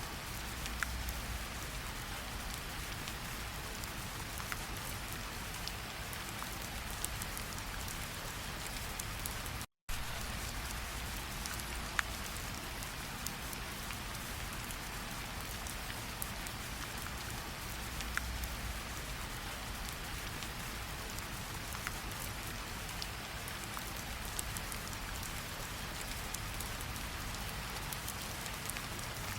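Steady rainfall in a tropical forest, an even hiss with scattered sharper drop ticks. The sound cuts out for a split second about ten seconds in.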